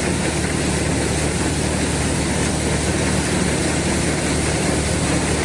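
Steady running drone of a tractor engine and a vintage SuperB grain dryer working together during corn drying, a constant low hum under an even rushing noise.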